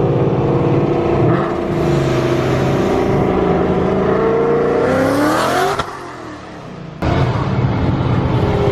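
Loud car engine revving hard. Its pitch climbs to a high rev about five seconds in, then it drops off sharply. The engine comes back in loud about a second later and its pitch falls away near the end.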